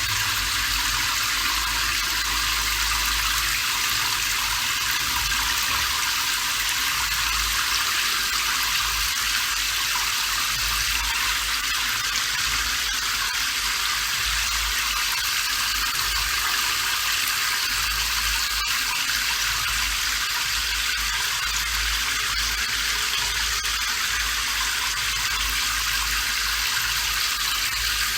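Steady rain, a continuous even hiss with a faint low rumble beneath.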